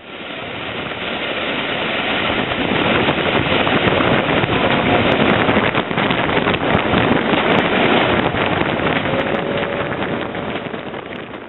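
Wind buffeting the microphone from a moving steam-hauled passenger train's carriage window, mixed with the train's running noise. It swells in over the first couple of seconds and fades near the end.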